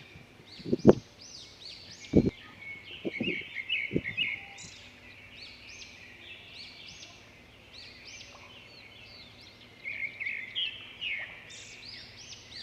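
Small birds chirping in quick runs of short, high arched notes, busiest near the start and again near the end. A few brief low thumps of wind buffeting the microphone come in the first few seconds.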